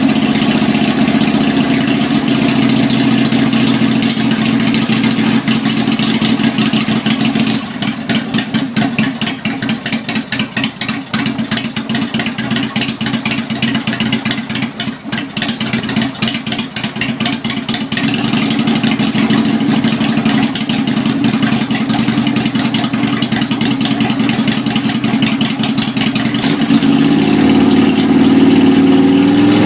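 Harley-Davidson 1340cc V-twin running through homemade straight 2-inch stainless steel pipes just after a cold start: a fast even idle at first, then a slower, uneven, loping idle with separate exhaust beats from about eight seconds in, steadying again and rising in pitch as the throttle is opened near the end.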